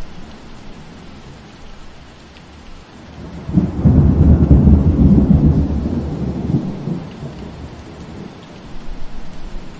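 Steady rain falling, with a roll of thunder that starts about three and a half seconds in, is loudest just after, and rumbles away over the next few seconds.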